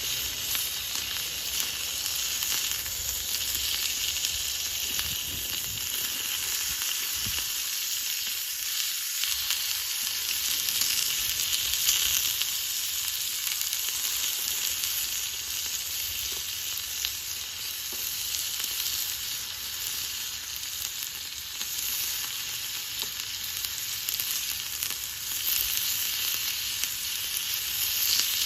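Food sizzling as it fries over a small solo wood-fire pit: a steady hiss with faint crackles throughout.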